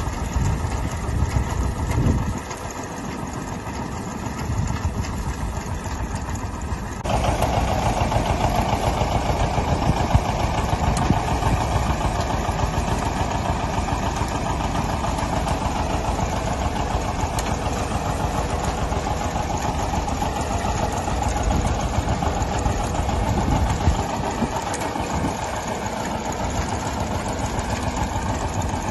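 Tractor engine running steadily. About seven seconds in the sound changes abruptly and turns louder, with a steady mid-pitched noise running on top of the engine.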